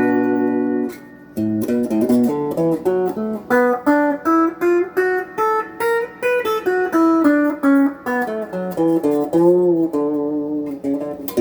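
Electric guitar on its bridge pickup, played clean through a Crate GX15R amp. A ringing chord is cut off about a second in, then comes a melodic run of single picked notes, and a new chord is struck at the very end.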